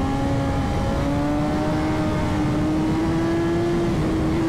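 BMW S1000RR inline-four sportbike engine pulling hard in fourth gear, its pitch rising steadily as the bike accelerates at highway speed, with wind rushing over the helmet microphone.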